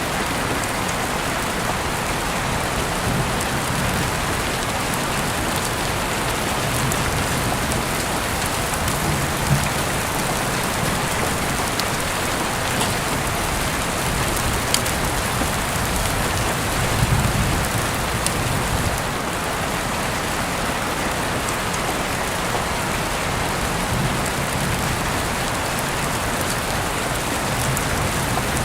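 Steady rain falling, with a few sharp ticks now and then and brief low rumbles in the bass.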